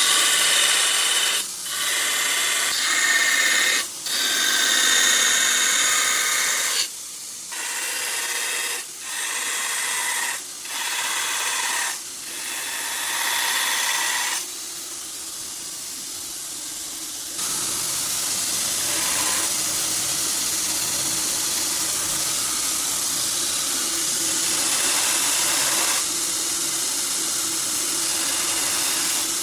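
2x72 belt grinder running a ceramic abrasive belt, grinding in a series of short passes broken by brief gaps during the first half. For the second half it runs steadily, a constant hum under the grinding hiss.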